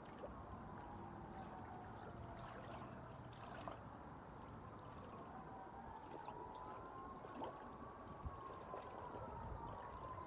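Steady wash of waves and wind, with a faint siren wailing slowly up and down over it and a few small clicks.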